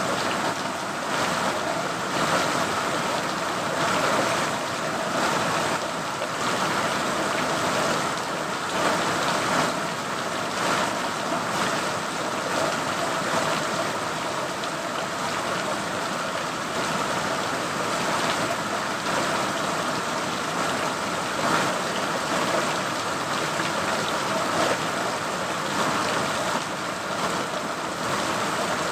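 Steady rain falling, a dense even hiss with small swells in level every few seconds.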